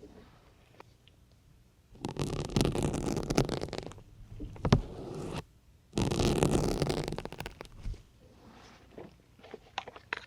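Syringe needles pushed into a soft foam sponge, making a crunchy, scratchy squelch: two long pushes of about two seconds each, beginning about two and six seconds in. A sharp click comes between them, and small plastic clicks follow near the end.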